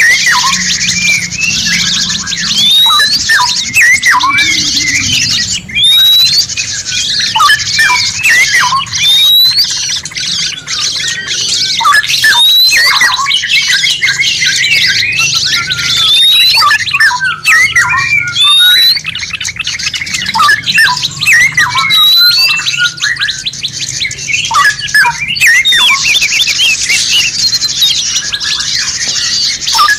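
A dense mix of several songbirds singing and calling at once, the layered bird-song track used as masteran for training captive songbirds. Quick chirps and trills overlap, and a short rising whistle repeats every second or two.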